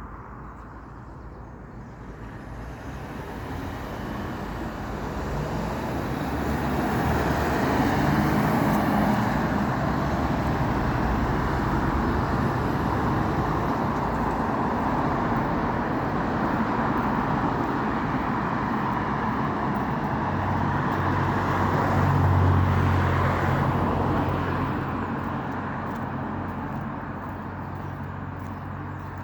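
Road traffic passing: the tyre and engine noise swells over the first several seconds and stays up. About two-thirds through, a heavy vehicle's low engine drone is loudest, then it all fades away near the end.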